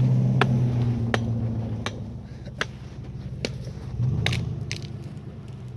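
A 4x4's engine running under load, easing off and then revving again about four seconds in, with sharp crunching clicks about every three-quarters of a second.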